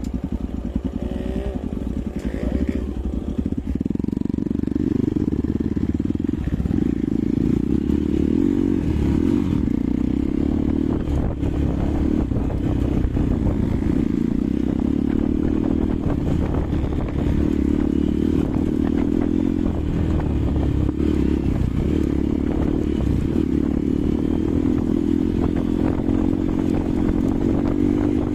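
Hero Xpulse 200's single-cylinder engine and exhaust running steadily under load while riding, the pitch rising and falling with the throttle. Frequent clattering knocks come from the bike over rough ground.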